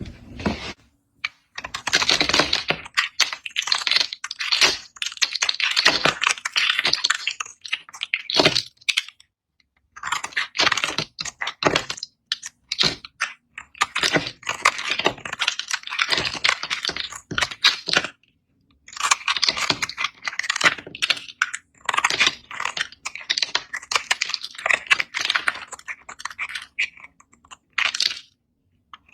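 A knife cutting through dry bar soap, with a dense crackly, crunchy scraping as the blade goes through. It comes in long runs of cutting with a few brief pauses between them.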